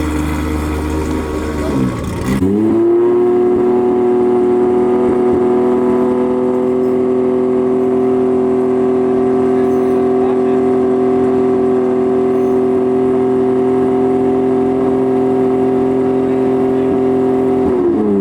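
Drift car engine revving: its pitch drops and dips about two seconds in, then climbs quickly and is held at a steady high rev for about fifteen seconds, falling off near the end.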